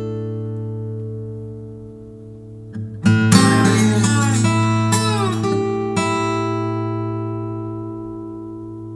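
Acoustic guitar music: chords strummed and left to ring and fade, with a fresh run of strums about three seconds in.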